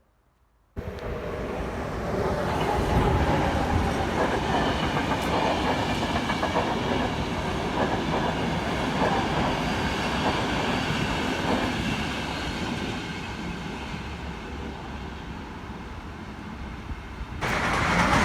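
A train passing close by, running steadily with its rail noise. It starts abruptly about a second in, eases off somewhat toward the end, then turns louder again just before the end.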